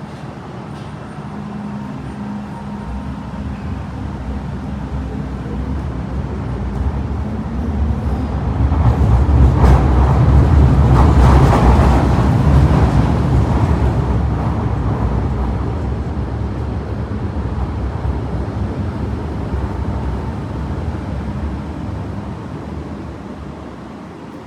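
MTR Island Line M-train electric multiple unit pulling away: the rumble of its wheels and traction equipment builds to its loudest about ten seconds in, then fades away as the train leaves.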